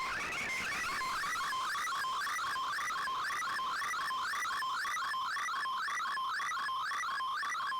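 Slow-scan television (SSTV) image signal received over shortwave radio. It is a steady, even warble that repeats about three times a second, each scan line a short low sync tone followed by a quick climb in pitch.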